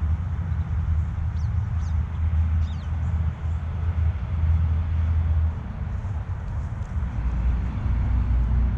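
Steady low outdoor rumble, with a few faint, high, short bird chirps about one to three seconds in.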